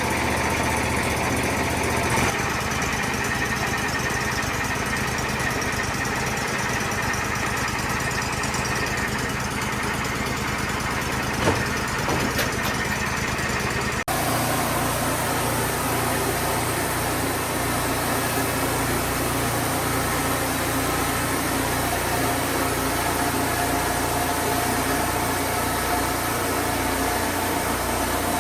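A Wood-Mizer portable sawmill's engine running steadily as pine posts are about to be sawn. There is a short knock about eleven seconds in, and the engine note changes abruptly about halfway through.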